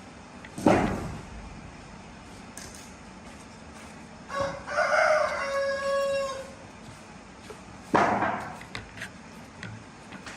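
A rooster crowing once, a call of about two seconds in the middle. Two sharp knocks, the loudest sounds, come shortly before it and well after it.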